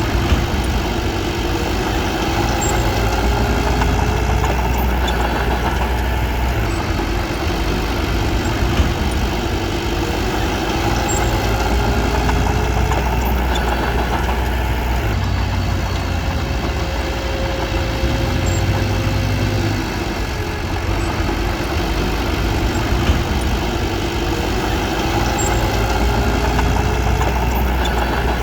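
Diesel engine of a Komatsu D21P small crawler bulldozer running steadily, its pitch and load shifting a little now and then.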